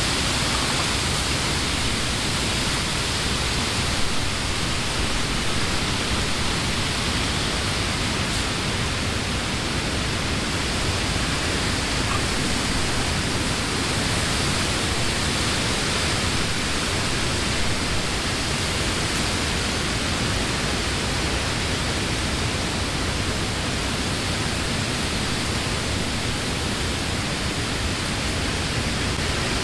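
Wind blowing steadily through leafy trees: a constant rush of leaves, with no lulls.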